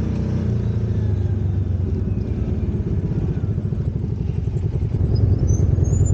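An off-road vehicle's engine running steadily with an even pulsing note, getting louder about five seconds in.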